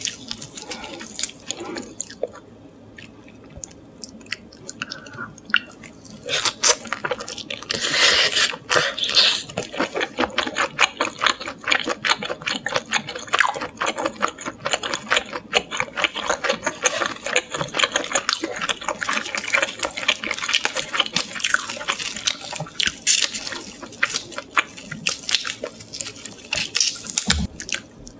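Close-miked eating of salt-grilled shrimp: chewing with wet smacking mouth sounds and many quick clicks. It is quieter for a few seconds early on, then the clicks come thick and fast from about six seconds in.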